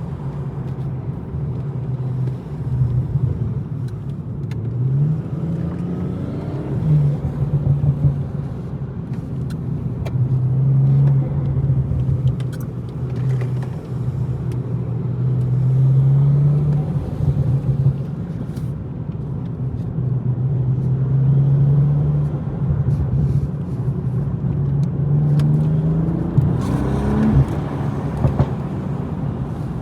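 BMW M240i's turbocharged straight-six engine running under way. It holds a steady note, with the revs climbing briefly a few times.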